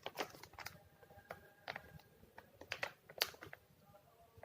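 Light, irregular clicks and taps, about a dozen, from a freshly sealed plastic cup and the cup sealer's tray being handled.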